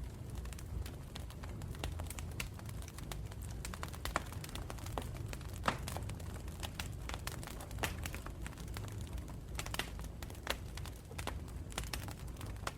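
Campfire burning in the woods: wood crackling and popping in irregular sharp snaps over a steady low rumble of the flames.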